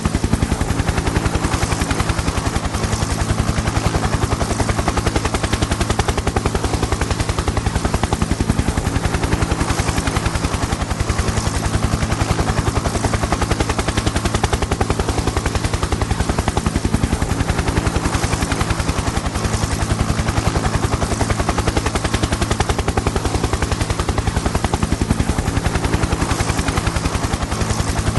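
Helicopter in flight: a rapid, steady chop of the rotor blades over a steady engine hum, unchanging throughout.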